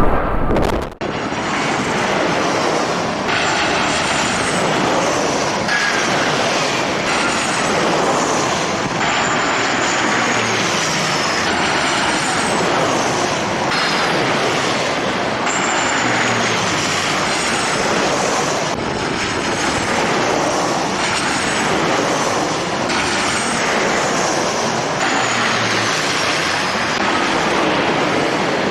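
Jet airliner engines running: a steady, even rush with faint high whines that fall in pitch again and again. Just before this, a burst of wind on the microphone cuts off about a second in.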